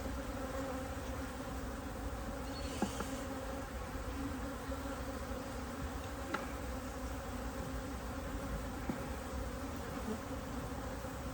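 A honeybee colony buzzing steadily at an open top bar hive. A couple of faint knocks come as the wooden top bars are pushed back into position.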